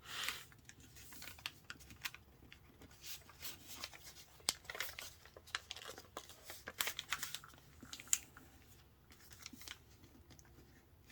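Sheet of printer paper being folded and creased by hand: scattered short crinkles, rustles and sharp crackles of the paper, busiest in the middle.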